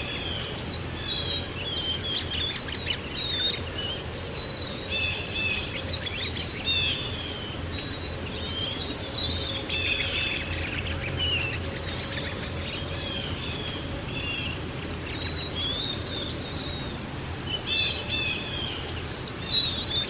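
A chorus of songbirds chirping and twittering, many short overlapping calls, over a steady low background rumble.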